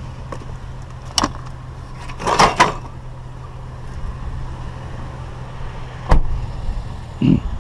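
Scrap being handled and loaded: a knock, a short clatter a couple of seconds in, and a heavy thump about six seconds in, over the steady low hum of an idling vehicle engine.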